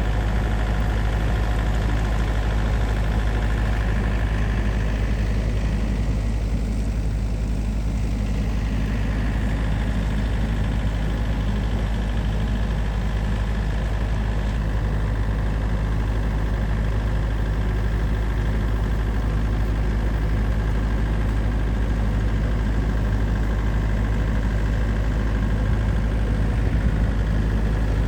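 Snowblower engine running steadily at a constant speed, with a deep, even hum.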